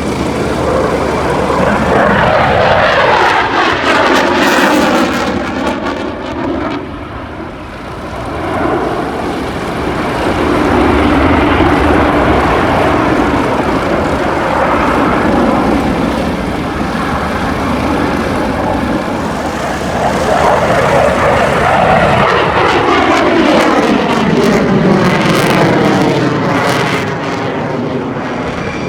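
Aircraft engine noise from low flyovers, loud throughout, with sweeping rises and falls in pitch as the aircraft passes. The sound dips briefly about seven seconds in, then builds again for another pass.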